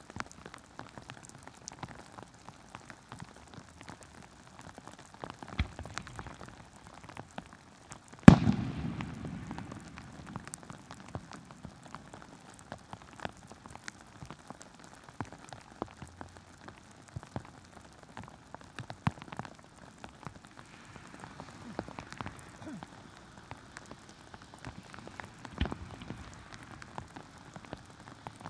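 Heavy rain pattering in many small taps. About eight seconds in, one loud firework shell bursts with a low rumbling decay, and fainter thuds of other shells come near six seconds and near the end.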